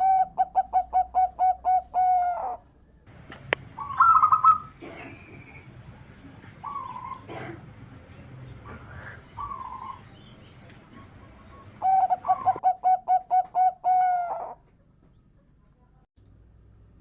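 Zebra dove (perkutut) cooing twice, each time a rapid run of about ten short coos that ends in a longer, falling note. Fainter bird calls come between the two bouts.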